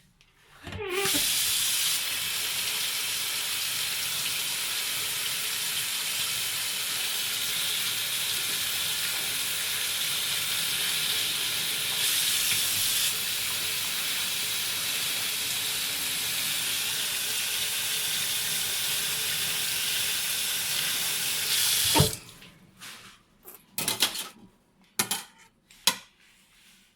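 Water tap running in a steady stream for about twenty seconds, then shut off suddenly, followed by a few light clicks and knocks.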